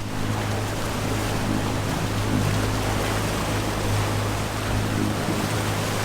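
Boat engine running steadily with a low hum, over the rush of water and wind as the catamaran moves along.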